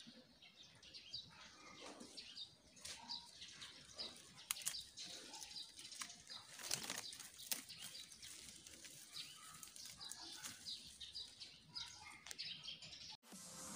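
Small birds chirping faintly: many short, scattered chirps, with a few sharp clicks.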